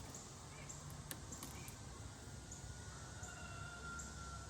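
A faint low hum of honey bees around an open hive, with a soft high chirp repeating a little more than once a second and a few light clicks about a second in.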